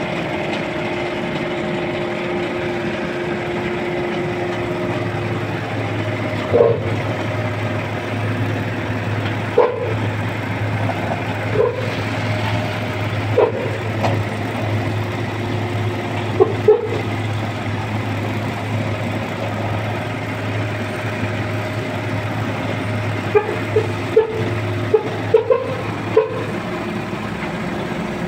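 Garbage truck running steadily, with a deeper hum setting in about five seconds in as the loading gear works. Short clanks and squeaks come every couple of seconds, and several come close together near the end.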